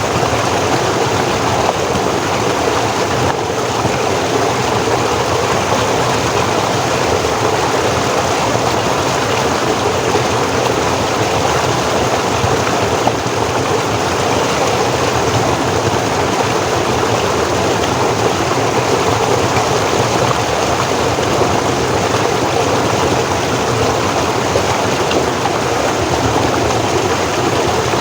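Forest stream flowing and cascading, a steady, even rush of water.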